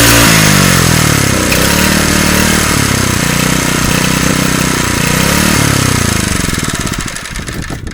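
A freshly repaired engine revving up and down several times. Its firing then slows to separate beats and it runs down to a stop near the end.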